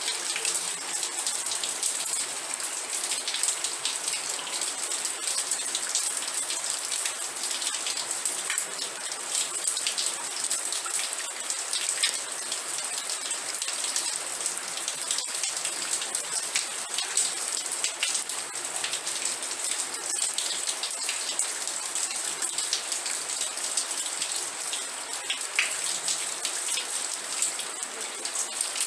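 Steady rain, with an even hiss and many sharp, close individual drop hits throughout.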